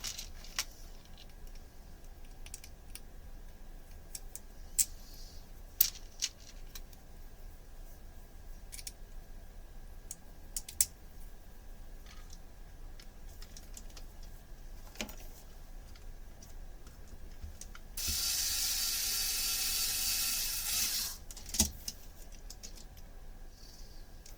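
Scattered light clicks and taps of small plastic parts and hardware being handled while a 3D-printed turntable is put together. Near the end a steady hissing whir runs for about three seconds, louder than the clicks, then stops.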